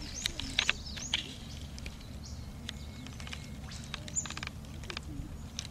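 Small birds calling in the bush: a run of quick, high downward-sweeping chirps about three a second for the first second, then scattered sharp clicks and short calls, over a steady low outdoor rumble.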